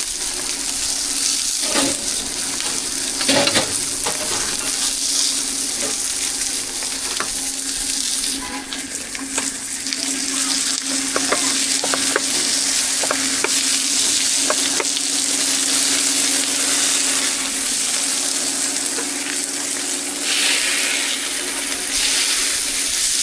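Food sizzling in hot oil on a griddle, a steady dense hiss, with a steady hum beneath it. Now and then there are short clicks and taps of a metal utensil.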